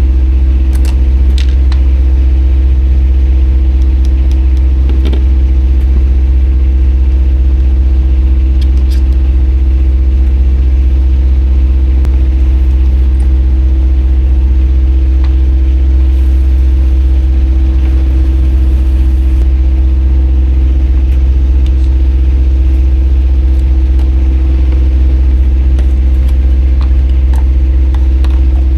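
Sailboat's auxiliary engine running steadily under motor sail, a loud, even low drone with a steady tone above it and a few faint clicks.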